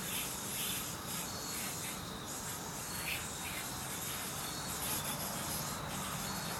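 Avalanche yo-yo spinning and rubbing on its string during play: a steady hiss with soft scraping brushes now and then.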